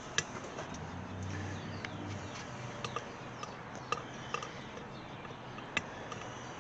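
Scattered light clicks and taps, about seven spread unevenly over several seconds, over a faint low background hum.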